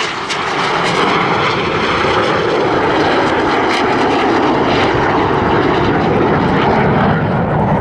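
Loud, steady roar of two BAE Hawk T1 jet trainers of the Red Arrows' synchro pair flying fast and low past the crowd.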